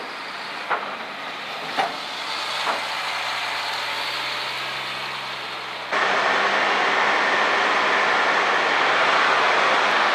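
Oshkosh HEMTT heavy military truck running, with a few sharp knocks in the first three seconds; about six seconds in the sound jumps abruptly to a louder, even rushing noise.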